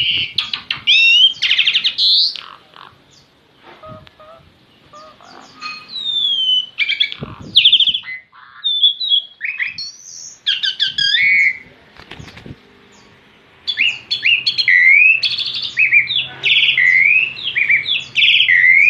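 A songbird singing in loud bursts of rapid chirps and whistled phrases, with a quieter gap of a few seconds in the first half.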